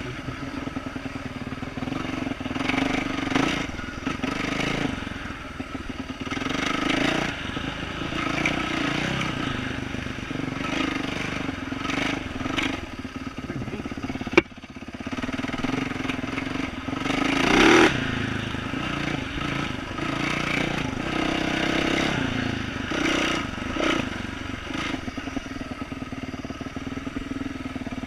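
2012 Yamaha YZ450F's single-cylinder four-stroke engine with an aftermarket exhaust, ridden at trail pace and revving up and down again and again with the throttle. Bursts of clatter from the bike over rough ground come and go, and there is one sharp click about halfway through.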